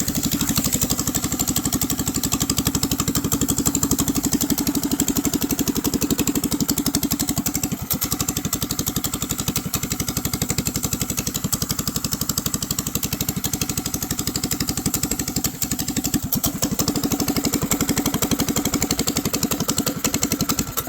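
Mini bike's small gas engine running steadily at idle, a fast even firing beat, then cutting off at the very end.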